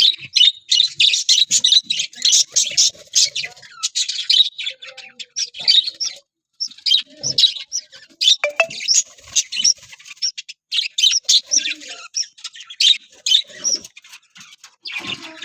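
Budgerigars chirping in a rapid, continuous chatter of short high chirps, with a brief pause about six seconds in.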